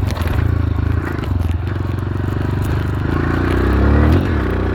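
Dirt bike engine running under throttle on a motocross track. Its pitch climbs from about three seconds in to a peak near the end, then drops as the throttle is let off.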